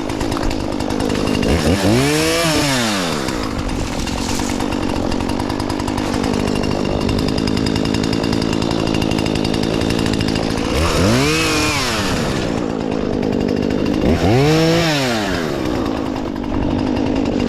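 Two-stroke chainsaw running throughout, revved up and let back down three times: once about two seconds in, then twice near the end. Between the revs it runs at a steady speed.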